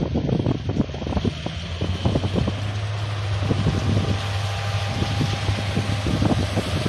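John Deere S780 combine harvester running steadily: a constant low hum under a broad hiss, with wind buffeting the microphone in irregular low thumps.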